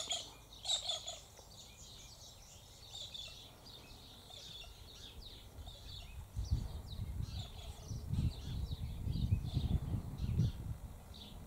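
Birds chirping in short, high calls, strongest in the first second. A low rumble sets in about six seconds in and fades near the end.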